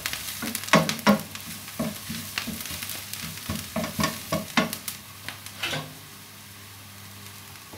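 A utensil scraping and knocking against a frying pan as onion, garlic and bell pepper are stirred and sautéed, with a light sizzle. The stirring strokes stop about six seconds in.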